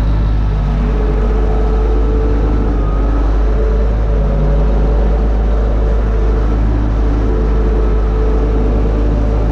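UTB Universal 650 tractor's four-cylinder diesel engine running steadily under load, pulling a disc harrow.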